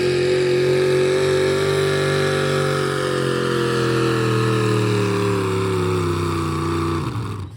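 Pulling truck's engine running at high revs under full load. Its pitch creeps up slightly, then slowly sags, and it cuts off sharply about seven seconds in as the throttle is released at the end of the pull.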